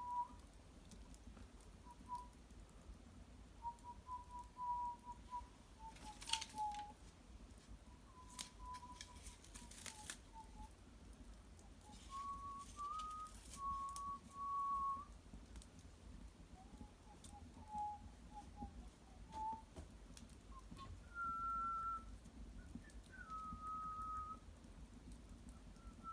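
A person whistling a slow tune, one clear note at a time stepping up and down, with a few sharp crackles from the wood fire in between.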